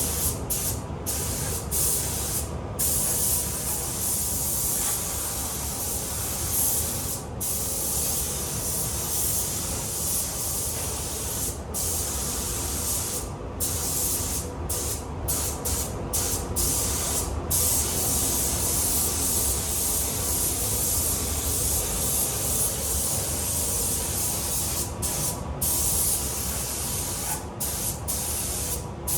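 Compressed-air paint spray gun hissing steadily as it lays down base coat at about 1.5 bar, with many brief breaks in the hiss between passes.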